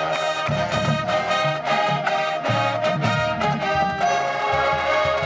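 Marching band playing: brass holding sustained chords over low brass and repeated percussion strikes.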